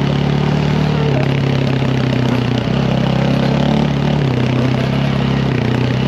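Dirt bike engine running under way, its note stepping up and down a few times as the throttle and gears change.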